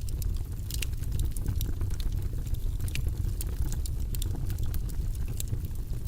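Wood fire in a fireplace crackling: frequent sharp, irregular pops and snaps over a steady low rumble of the burning fire.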